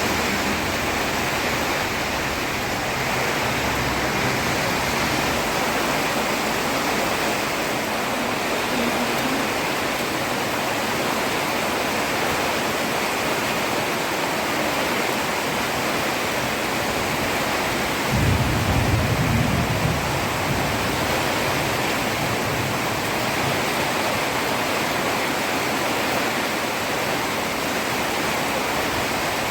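Heavy rain falling steadily on a road, an even hiss. About two-thirds of the way through, a brief low rumble swells for about two seconds and fades.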